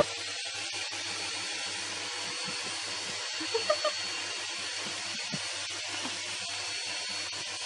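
Vacuum cleaner running steadily, a motor hiss with a thin high whine. A few brief faint pitched sounds come about three and a half to four seconds in.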